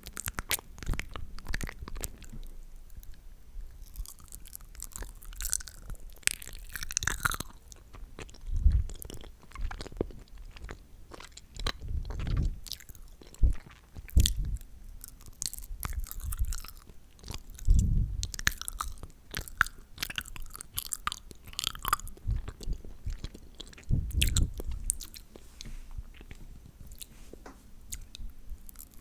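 Close-up wet mouth sounds into a sensitive microphone: sticky lip-gloss smacking, licking and many quick clicks and pops. A few deeper low thumps are scattered through it.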